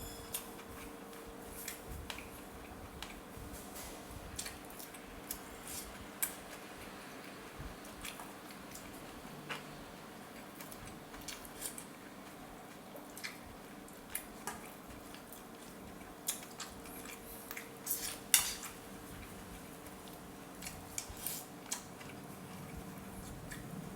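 Spoon and chopsticks clinking now and then against a bowl of noodle soup while eating, with a louder cluster of clinks past the middle, over a steady hum of the room.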